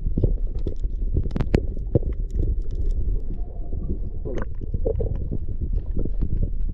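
Kayak being paddled: a steady, muffled low rumble with scattered knocks and splashes from the paddle and water.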